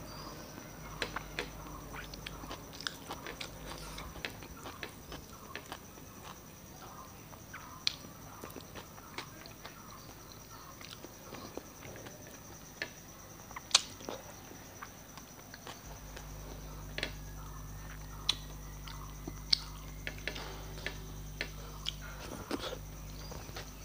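Close-miked chewing and wet mouth sounds of someone eating soft rice mixed with dal and mashed potato by hand, with fingers squishing and scraping food on a plate. Scattered short clicks throughout, a few of them sharper and louder.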